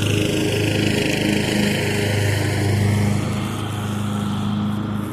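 Steady drone of small lawn-equipment engines: an Echo SRM 225 two-stroke string trimmer cutting along the side of the yard, together with a riding mower's engine. The drone swells a little in the middle and eases slightly near the end.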